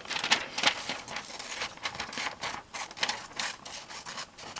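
Magazine paper being handled at a craft desk: a quick, irregular run of short crisp rustles and clicks.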